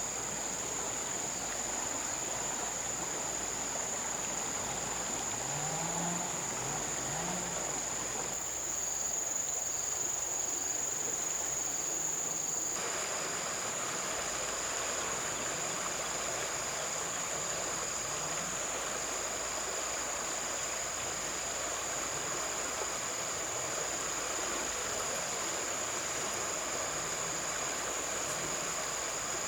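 Insects singing in one steady, high-pitched tone over the hiss of flowing river water. The water sound dips for a few seconds about a third of the way in.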